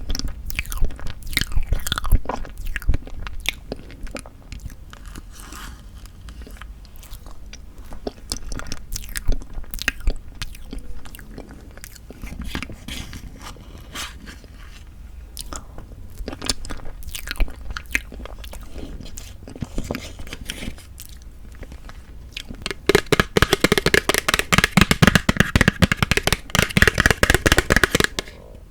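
Close-miked eating sounds of tofu tiramisu: bites and chewing with scattered sharp mouth clicks, then a denser, louder stretch of crackling over the last five seconds or so.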